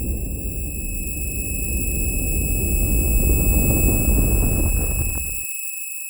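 A steady high-pitched electronic tone, held without a break, over a low rumbling noise. The rumble cuts off abruptly about five seconds in, leaving the tone alone.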